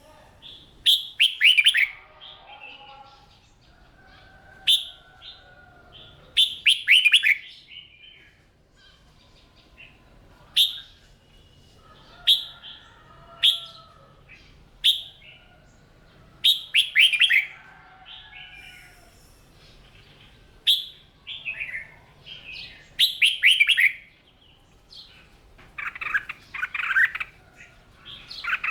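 Red-whiskered bulbul singing: short, loud phrases of clear whistled notes, many sliding downward in pitch, repeated every few seconds with short pauses between.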